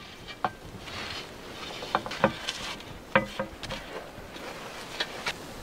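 A few irregular, sharp clicks and cracks over a faint steady hiss.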